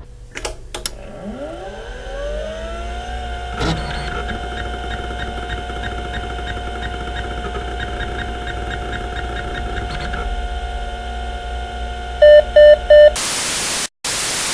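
Electronic sound effects: a tone glides up in pitch and holds as a steady hum, with a single knock about four seconds in. Near the end come three short loud beeps, then a burst of loud static that breaks off for a moment, the sound of the playback failing.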